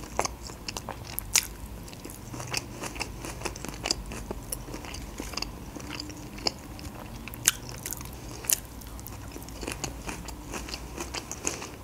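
A person chewing close to the microphone, mouthfuls of pickled ginger, with irregular crisp wet clicks and crunches and a few sharper ones.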